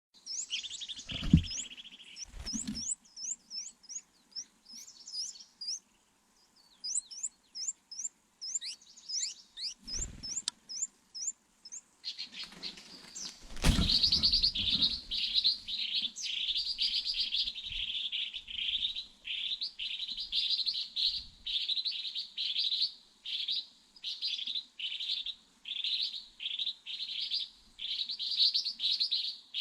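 Small birds chirping. For the first dozen seconds there is a series of quick, high, falling chirps. After that a denser, lower run of rapid chirps carries on to the end. A few low thumps come near the start, at about ten seconds, and just before fourteen seconds.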